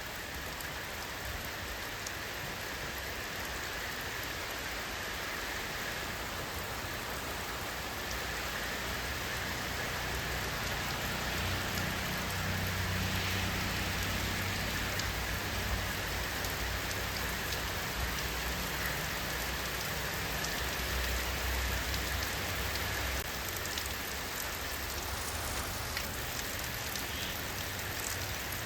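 Steady rain falling on surfaces, a dense even hiss. A low rumble swells a little before the middle and eases off later on.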